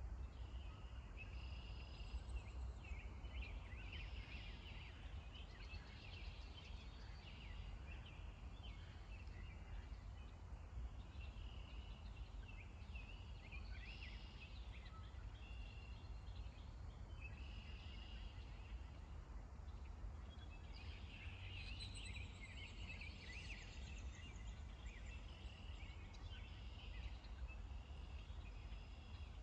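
Small birds chirping and singing, many short calls overlapping, busiest about three-quarters of the way through, over a faint low rumble.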